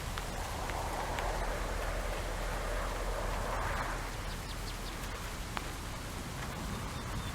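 Steady rain falling, swelling louder for a few seconds about half a second in, then easing back to an even patter with scattered drop ticks.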